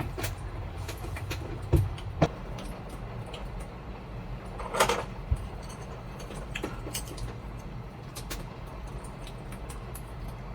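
Typhoon wind and heavy rain buffeting a small kei-truck camper: a steady low rumble with scattered sharp taps, two thumps about two seconds in, and a short louder rush about five seconds in.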